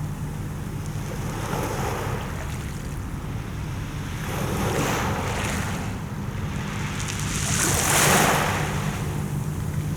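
Mediterranean sea waves washing in on the shore, three surges swelling and fading, the loudest near the end, over a steady low rumble of wind on the microphone.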